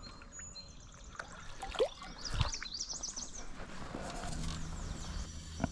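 Songbirds chirping in quick runs of short, high, falling notes, with a few sharp knocks in between. A low steady hum comes in about four seconds in.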